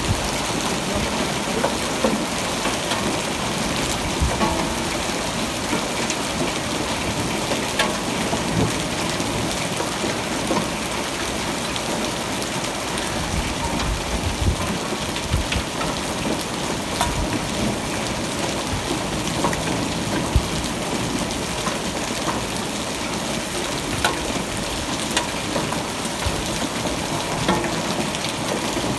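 Steady rainfall, an even hiss dotted with irregular drop ticks.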